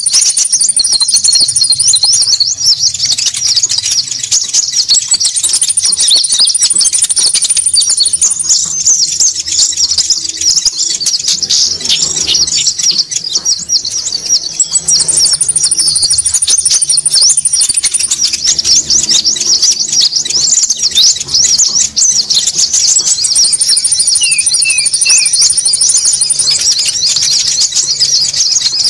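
Bird-trapping lure recording of konin calls: a dense, continuous chatter of quick high-pitched chirps, with a thin, very high trill lasting about two seconds that comes back four times.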